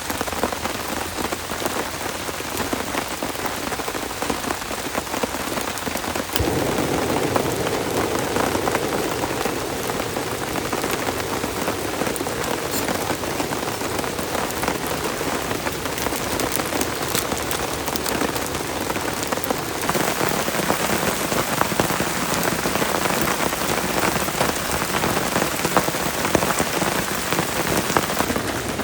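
Heavy rain falling and beating steadily on a surface. About six seconds in, the drumming suddenly gets fuller and heavier.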